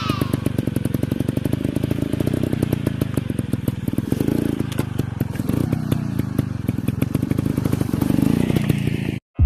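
Dirt bike engine running at low revs with a rapid pulsing beat, rising slightly in pitch a couple of times, then cutting off suddenly near the end.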